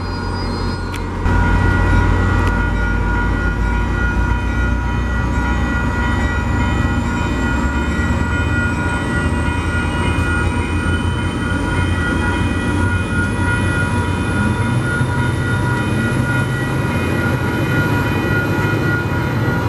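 Metro-North Port Jervis Line commuter train rolling past close by: a heavy, steady rumble of the coaches on the rails, with a faint whine rising slowly in pitch throughout.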